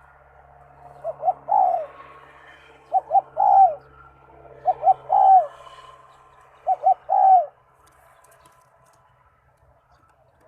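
Zebra dove cooing: four phrases about two seconds apart, each two short clipped notes followed by a longer rolling coo, in the Malay-style song rhythm.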